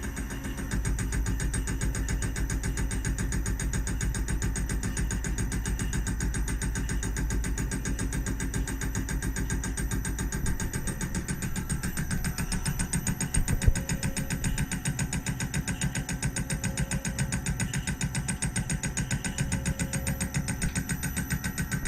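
CNC milling machine running steadily with a fast, even pulsing, typical of a cutter working metal, with one sharp click about 14 seconds in.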